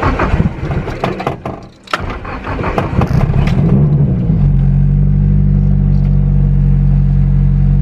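Clunks and clicks of the car being opened and got into, then the starter cranks and the Datsun Z's engine catches with a brief rev about four seconds in. It then settles into a steady, even idle.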